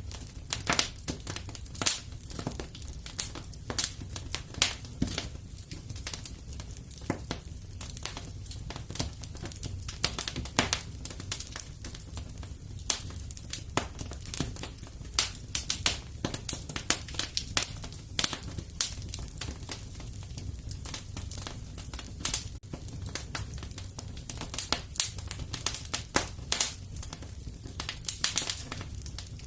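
Wood fire crackling in a fireplace: irregular sharp snaps and pops, some louder than others, over a steady low rumble.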